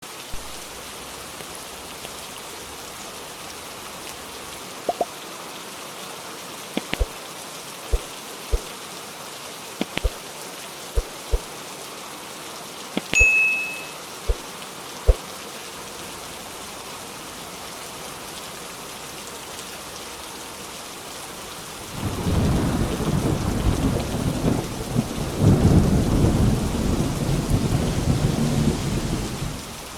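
Steady rain with scattered single loud drops striking a hard surface. About two-thirds of the way through, a long low rumble of thunder rolls for some seven seconds and then stops abruptly.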